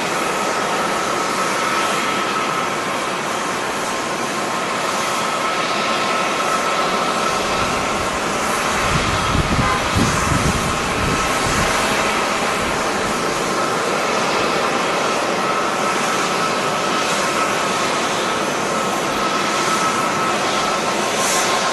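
Jet airliner engine noise: a steady rushing sound with a constant high whine running through it, and a stretch of low rumbling from about nine to twelve seconds in.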